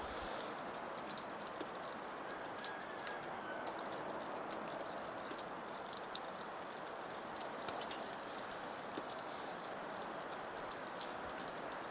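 Small fire of paraffin-soaked cardboard kindling catching in a homemade wood stove: a steady hiss with scattered light crackles.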